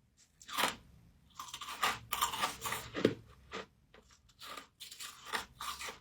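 A person biting and chewing frost: a run of irregular, crisp crunches, loosely bunched, with short pauses between bites.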